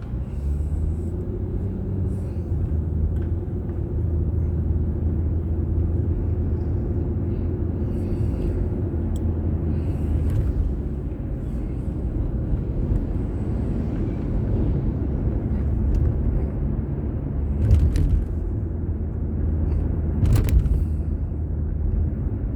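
Car driving on city roads, its engine and tyre noise making a steady low rumble as picked up by a dashboard drive recorder, with two brief louder noises near the end.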